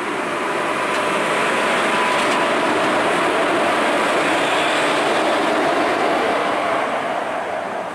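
Indian Railways electric locomotive and its passenger coaches running past close by: a steady noise of wheels and running gear, with a faint steady whine. It swells over the first couple of seconds, holds, then eases off near the end as the coaches roll by.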